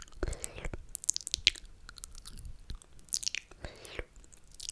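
Close-miked wet mouth sounds for ASMR: slurping with many sharp, wet lip and tongue clicks, and two longer slurps, one near the start and one about three and a half seconds in.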